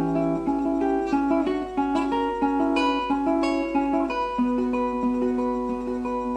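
Solo plucked-string instrumental music, a guitar-like instrument picking a melody note by note over a low ringing note. The notes come quickly at first; after about four seconds they are held longer and left to ring.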